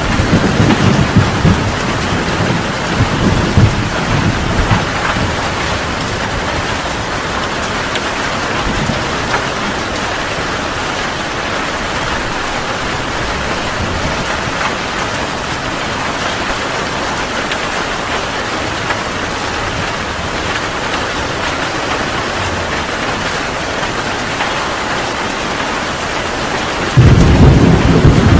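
Heavy rain pouring steadily. A low thunder rumble dies away over the first few seconds, and a loud rumble of thunder breaks in suddenly near the end.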